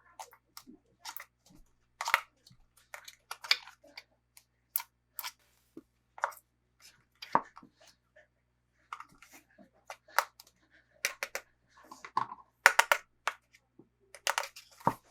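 Hands unboxing a toy: irregular small clicks, taps and crinkles of packaging and plastic parts being handled, coming in uneven clusters with short pauses between.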